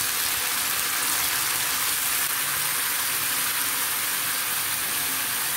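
Raw plantain cubes frying in a little oil in a kadai: a steady sizzling hiss.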